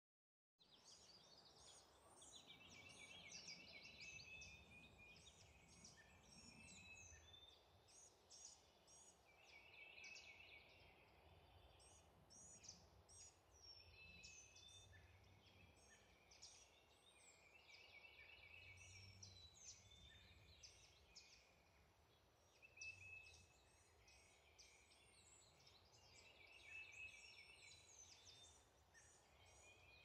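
Faint chorus of several wild songbirds singing in a pine woods, many short chirps and calls overlapping, while one bird repeats the same short song about every four to five seconds.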